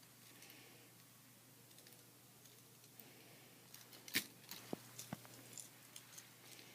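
Handling noise: a scatter of light clicks and clacks of small hard objects being moved, the loudest just after four seconds in, over near-silent room tone.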